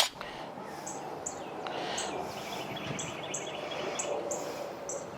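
Northern cardinal singing a series of short whistled notes that slide downward, mostly in pairs about a second apart, over a faint steady background noise.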